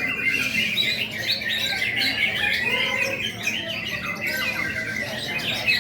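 Many greater green leafbirds (cucak ijo) singing at once: a dense, continuous jumble of overlapping quick chirps and trills.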